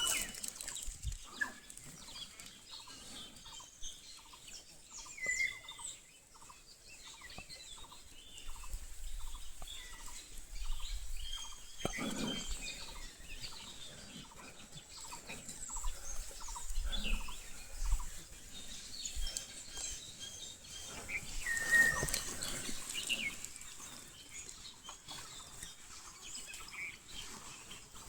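Birds calling outdoors: a short note repeated about twice a second through roughly the first eleven seconds, with scattered higher chirps throughout.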